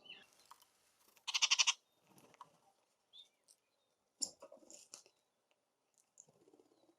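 A bird gives one harsh, rasping call about a second in, lasting about half a second. Short chips and clicks follow around four to five seconds in.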